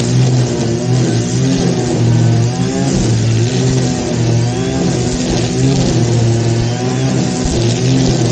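Small petrol engine of a grass cutter running steadily at high speed, its pitch wavering slightly as it works through the grass.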